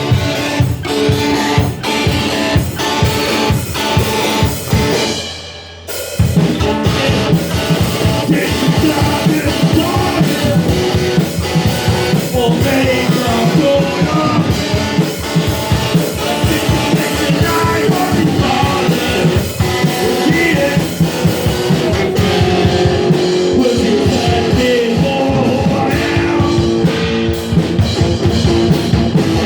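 Rock band playing with drum kit and guitar, dropping out briefly about six seconds in and then coming back in full.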